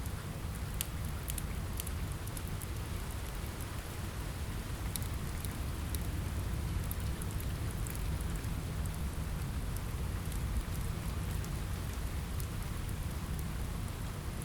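Steady rain on a window with a low rumble, mixed with a crackling wood fire: sharp pops and crackles scattered throughout.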